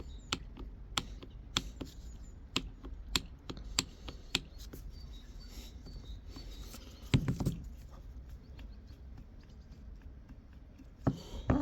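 Light metal clicks from a Toyota Aisin MMT five-speed gearbox's fourth gear and shift sleeve being worked by hand, about every half second at first, then a duller knock about seven seconds in and a few more clicks near the end. The clicks are the gear knocking in the play worn into its shaft, the cause of the knock when shifting between third and fourth.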